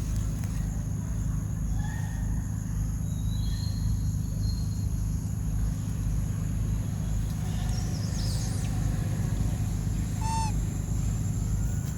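Outdoor ambience: a steady low rumble under a steady high-pitched insect drone, with a few faint chirps and whistles and one short, sharper animal call about ten seconds in.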